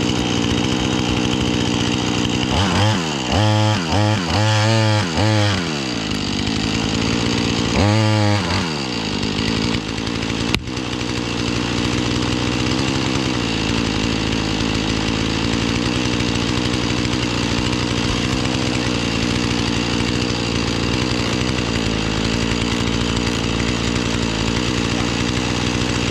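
Chainsaw revving in several quick throttle blips, then running steadily at full speed while cutting into a small tree that leans back against the felling direction.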